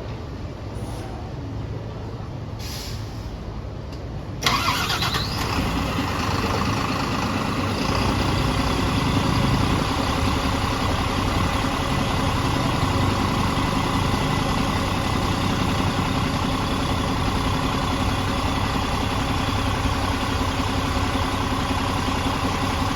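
City bus engine starting: after a low background rumble it catches suddenly about four and a half seconds in, then settles into a steady idle.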